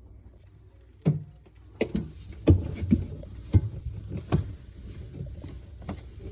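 Irregular knocks and clunks of household objects being handled, starting about a second in, over a steady hiss.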